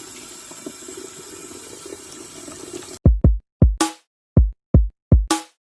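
Water running from a tap as a steady rush for about three seconds, then a sudden cut to a drum-machine beat of deep kick thumps and sharp cymbal-like hits.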